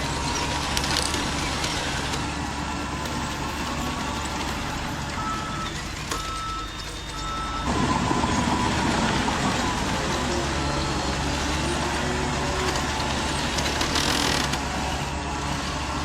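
Radio-controlled model construction trucks and bulldozer with simulated diesel engine sounds running steadily. A reversing beeper sounds a few beeps about five seconds in. The engine sound swells louder just before the middle.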